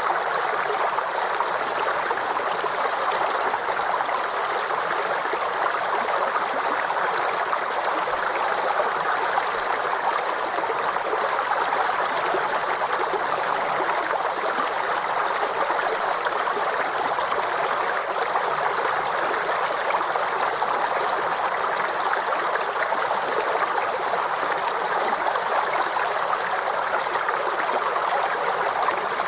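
Forest stream flowing steadily over stones, a constant babbling and gurgling rush of water.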